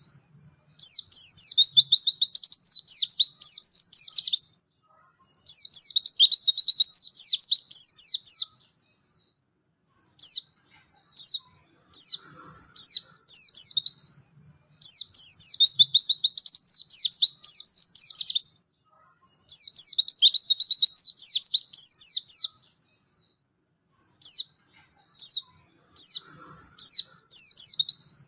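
White-eye (pleci) singing in repeated bouts of fast, high-pitched twittering, each lasting a few seconds, with short pauses between them: about six bouts.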